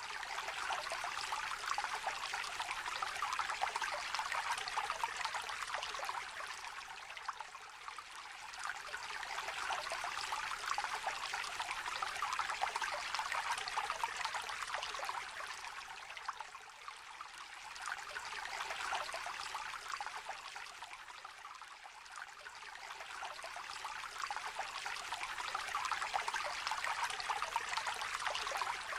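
Small river trickling and babbling. The flow noise slowly swells and eases every several seconds.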